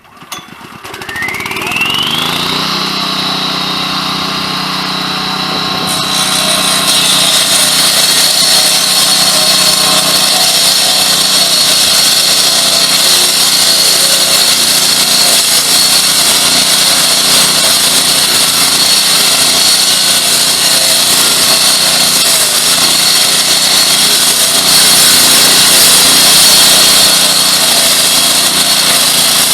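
Concrete saw cutting asphalt pavement: it spins up with a rising whine over the first couple of seconds, then runs steadily and loudly, with a hiss joining about six seconds in as the blade cuts into the asphalt.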